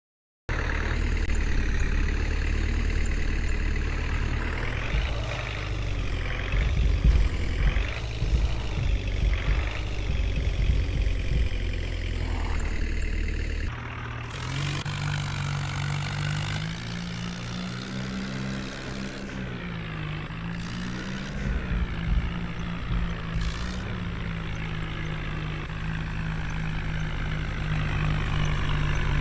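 Tractor engine running, its pitch rising and falling several times in the first half as it revs. About halfway a steadier, higher engine note takes over, broken by a few short hissing bursts.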